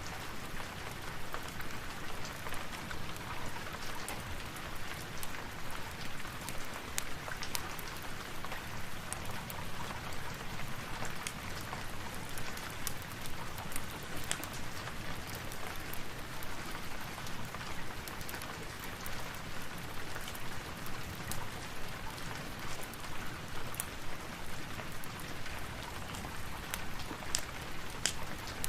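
Steady rain falling, with scattered sharp pops and crackles from a wood fire burning in a fireplace.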